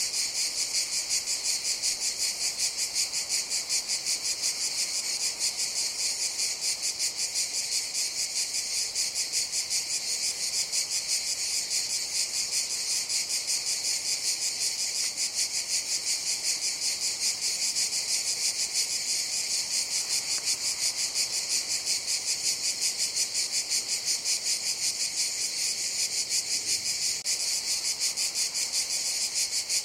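Cicadas singing in a steady chorus: a continuous high, rapidly pulsing buzz that never breaks.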